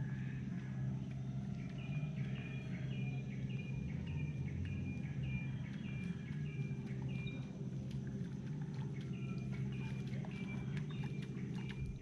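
A bird calling a series of short, evenly spaced high notes, about two a second, pausing for a couple of seconds midway and then starting again. A steady low hum runs underneath.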